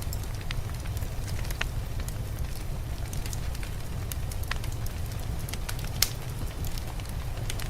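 Wood fire crackling in a fireplace: scattered sharp pops and snaps over a steady low rumble, with one louder pop about six seconds in.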